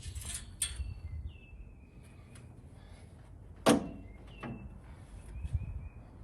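Small birds chirping in short falling notes, with a few light clicks near the start and one sharp knock a little past the middle, the loudest sound.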